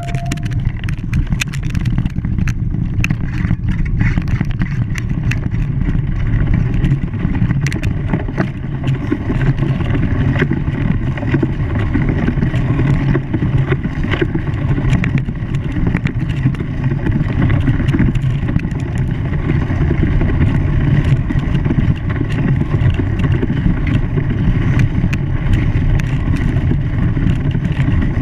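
A steady, loud low rumble of a running engine, with scattered light clicks over it.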